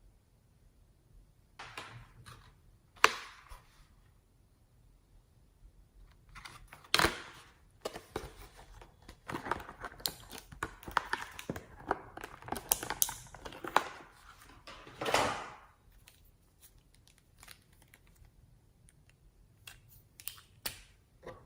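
Hands working slime and the things being mixed into it: scattered clicks and short rustling scrapes, with a dense run of small crackling clicks in the middle and one longer scrape just after it.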